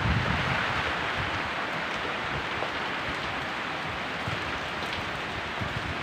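Heavy rain falling, a steady hiss with a few faint low knocks.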